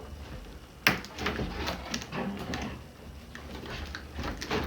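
Gift box and wrapping being handled and opened: one sharp knock about a second in, then scattered crackling and scraping.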